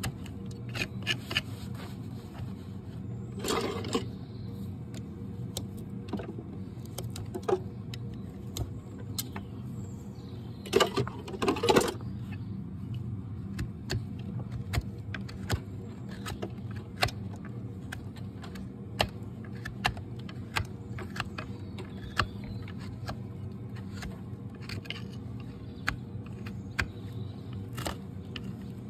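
Hoof trimming on a Shire horse: scattered sharp clicks and scrapes of trimming tools cutting and paring hoof horn, with longer scraping strokes about four seconds in and again around eleven to twelve seconds in, over a steady low hum.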